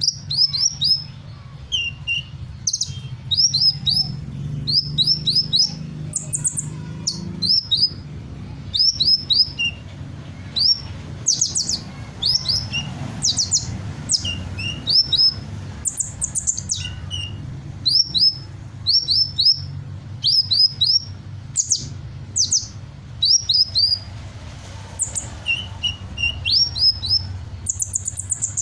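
Sunbird singing vigorously: rapid high chirps in quick clusters of three or four strokes, repeated every second or so, over a low steady hum.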